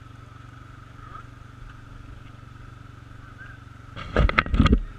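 Dirt bike engine running steadily, heard muffled through a GoPro housing, then a short loud burst of noise about four seconds in.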